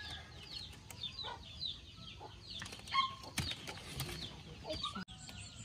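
Birds chirping over and over in short falling notes, with a few sharp clicks about three and four seconds in.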